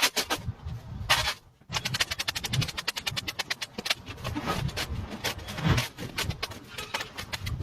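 A rapid run of sharp clicks or taps, about ten a second, with a short pause about a second and a half in.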